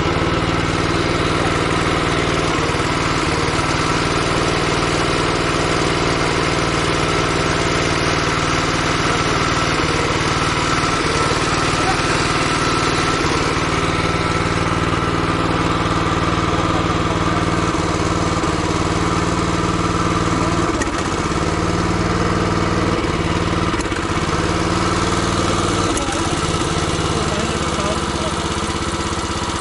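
An engine running steadily at a constant speed, an unchanging mechanical hum with no revving.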